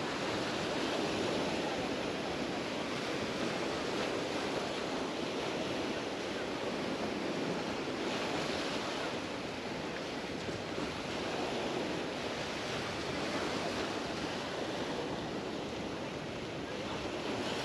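Mediterranean surf washing onto a sandy beach: a steady rush of small waves that swells and eases every few seconds.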